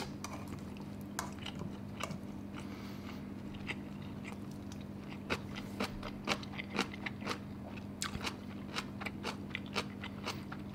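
A person chewing a mouthful of kimchi and rice: a run of small crunches and mouth clicks, more frequent in the second half, over a steady low hum.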